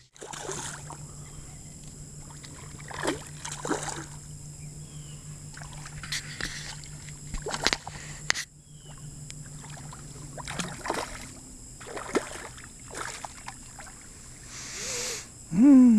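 Small knocks and light water sounds of a fishing kayak, over a steady low hum that stops about ten seconds in. A short, loud, voice-like sound that bends up and down comes just before the end.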